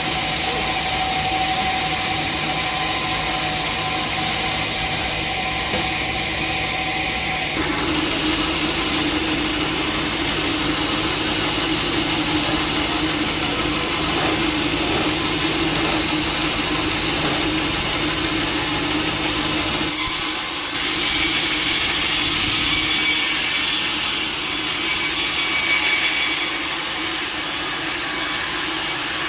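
Sawmill saw running and cutting through a log. The sound changes abruptly about a quarter of the way in and again about two-thirds of the way through.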